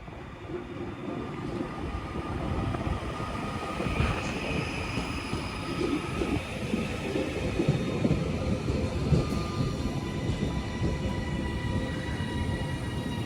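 Two coupled Class 331 electric multiple units arriving at the station platform: a steady rumble of wheels on rail with several faint, steady high whining tones from the traction equipment and wheels.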